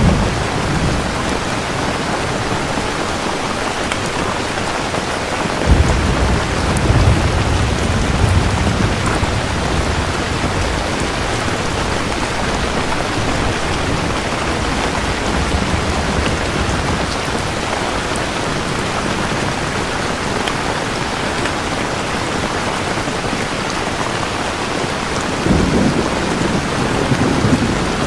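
Steady heavy rain hissing, with rolls of thunder rumbling low under it, one about six seconds in and another near the end.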